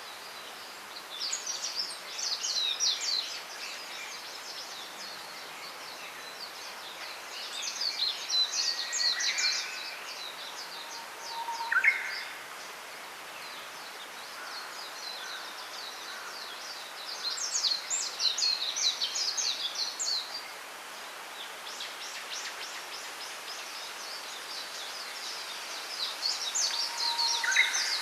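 Small songbirds singing in four bursts of rapid high twittering, with a few short lower whistled notes, the loudest about twelve seconds in. Underneath is a steady hiss of bamboo leaves rustling in the wind.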